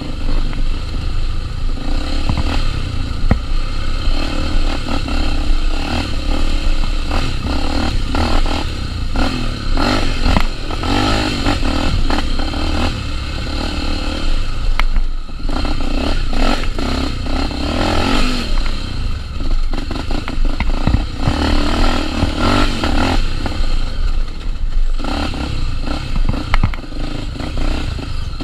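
Honda XR250 Tornado's single-cylinder four-stroke engine running off-road, its pitch rising and falling as the throttle is worked, with frequent knocks and scrapes.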